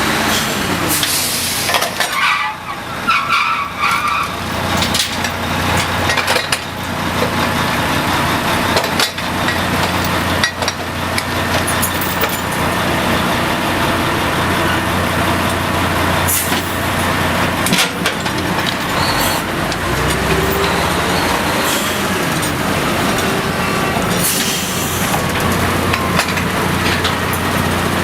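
Drilling rig floor noise: the rig's engines run steadily, with loud clanks of steel tools and pipe and a few short bursts of air hiss, one about a second in and a longer one near the end.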